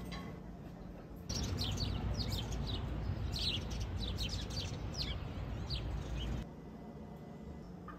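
Birds chirping and singing in quick runs of short, falling notes over a steady low outdoor background noise. It starts about a second in and cuts off abruptly near the end.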